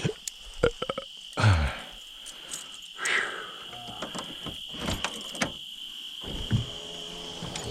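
Steady high-pitched chorus of insects, with scattered short knocks and scrapes over it.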